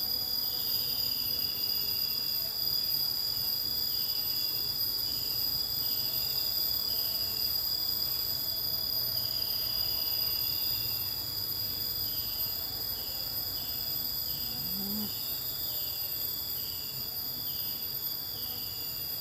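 Insects, crickets or cicadas, keeping up a steady high-pitched drone, with a run of short falling chirps that repeat more quickly in the second half.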